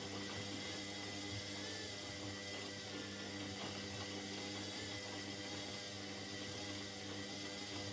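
Indesit 71252 washing machine running mid-cycle: a steady motor hum with an even hiss over it.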